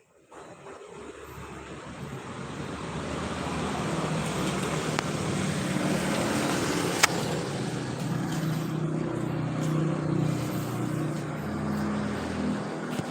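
Mini construction lift (monkey lift) motor running: it starts, builds up over the first few seconds, then runs steadily, with one sharp click about seven seconds in.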